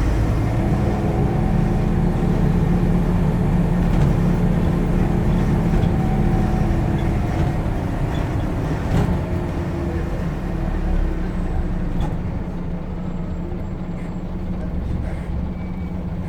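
Scania N94UD double-decker bus's diesel engine running on the move, a steady engine note heard from inside the cabin, with a sharp knock about nine seconds in and the engine easing off a little over the last few seconds.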